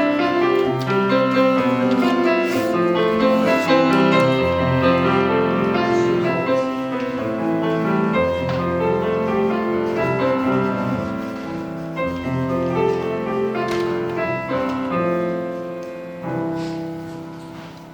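Piano playing a slow, chordal prelude with held notes, dying away near the end.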